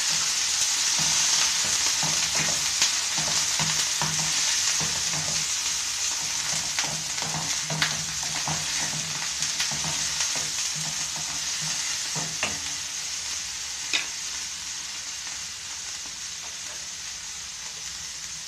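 Ground pork with onion and garlic sizzling in hot oil in a frying pan, stirred with a wooden spoon that taps and scrapes the pan. The spoon taps stop a few seconds before the end, and the sizzle slowly grows quieter.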